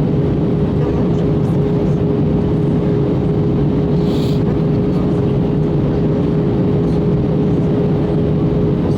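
Steady cabin noise inside an Airbus A321 airliner in flight: a constant deep rush of engine and airflow with a thin steady hum running through it. A brief hiss about four seconds in.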